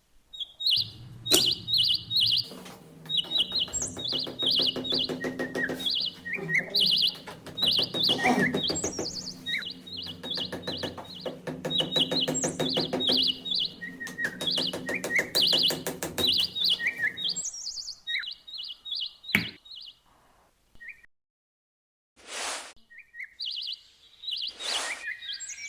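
Birds chirping in repeated short calls over a music track with a steady pulse. The music stops about two-thirds of the way through, leaving a few isolated short knocks and brief chirps.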